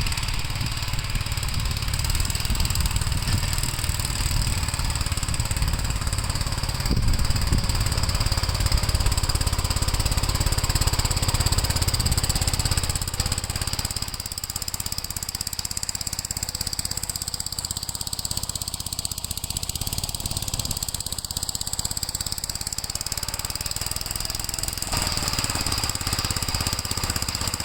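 Gravely L8 walk-behind tractor's small engine running steadily while plowing snow, a little quieter from about halfway through.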